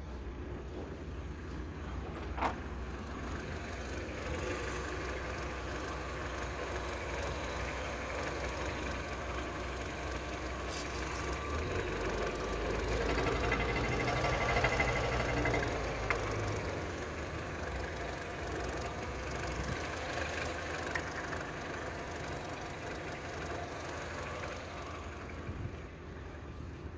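Mini Cooper R56's 1.6-litre N12B16A four-cylinder petrol engine running during an engine test. It is revved up gradually about halfway through, then drops back to a steady idle.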